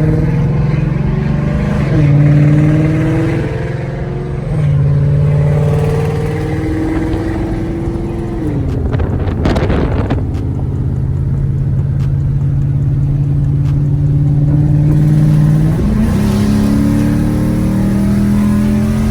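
2015 Mustang GT's 5.0 V8 running through catless long-tube headers, an H-pipe and Roush axle-back mufflers while driving. The engine note holds steady and then changes pitch in steps several times, as with throttle and gear changes. A short rushing noise comes about nine seconds in.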